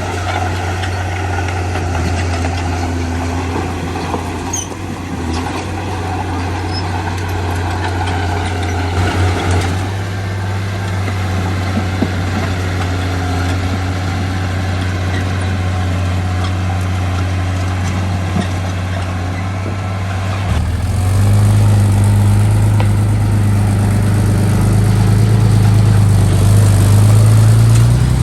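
Heavy diesel engine of construction machinery running steadily with a deep drone. About twenty seconds in, it gets louder and rises a little in pitch as it takes on more throttle or load.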